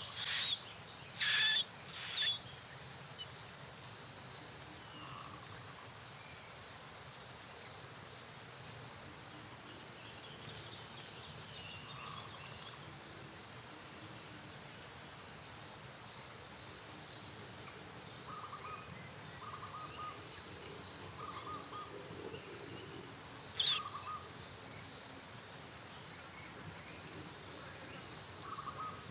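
Insects chirring steadily, a continuous high, fast-pulsing trill, with a few faint short notes in the second half.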